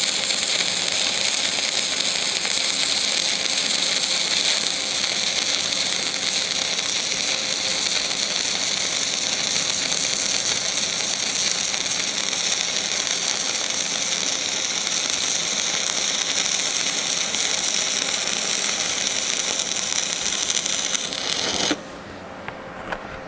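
Electric arc welding: the steady crackle and hiss of the welding arc, which cuts off suddenly near the end as the arc is broken.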